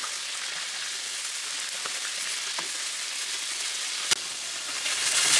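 Raw chicken pieces sizzling in hot oil in a pan: a steady, high hiss broken by a few light clicks and one sharper tick about four seconds in. The sizzle swells louder near the end.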